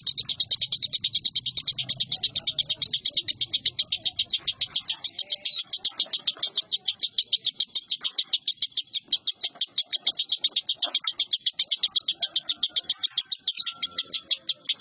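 Lovebird ngekek: a long, unbroken chattering trill of shrill notes at about ten a second, held at an even pace, the extended-duration song that Indonesian lovebird keepers prize in competition birds.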